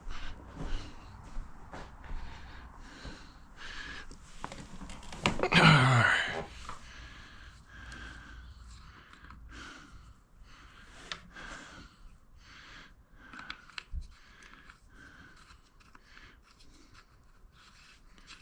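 Scattered small clicks, taps and rustles from handling parts and tools, with one louder scraping squeal about five seconds in that drops in pitch.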